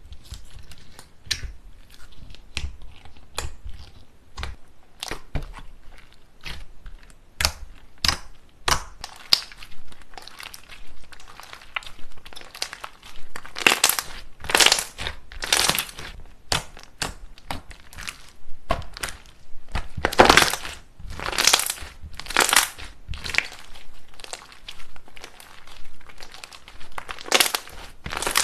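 Slime being squeezed and pressed by hand, giving a run of sticky clicks and pops with longer, louder squishes around the middle and again near the end.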